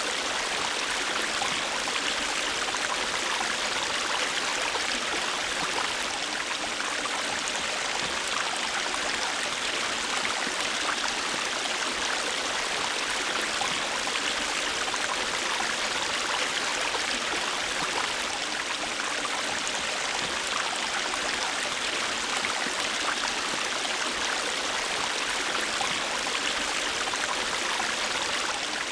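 A river or stream flowing steadily, a constant rushing of water with fine splashing and burbling.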